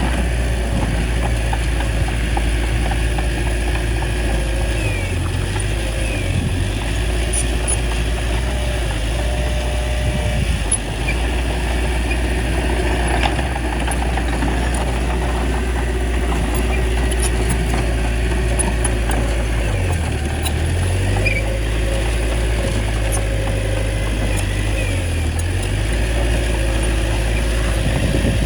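Small bulldozer's diesel engine running steadily, its low note dipping briefly a few times.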